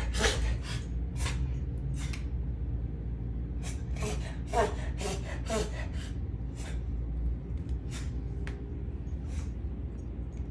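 A dog coughing in repeated short, sharp fits, some with a rasping, gagging edge, coming in clusters with brief pauses between.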